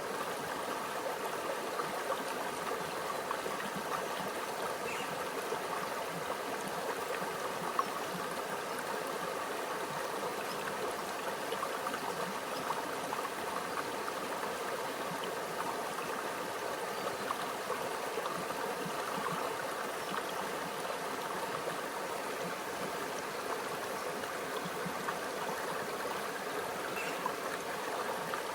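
A small stream running steadily, with a constant trickle and gurgle of shallow water over rocks.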